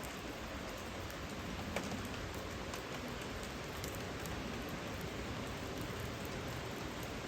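Steady rain falling: an even hiss with scattered sharp drop ticks, one louder drop a little under two seconds in.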